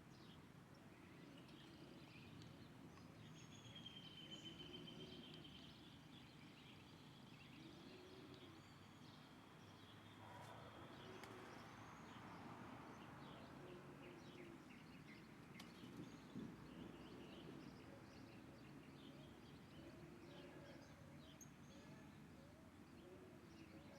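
Faint birdsong: high chirps and a long drawn-out whistle in the first half, a low hooting call repeated every few seconds throughout, and a quick series of short notes near the end.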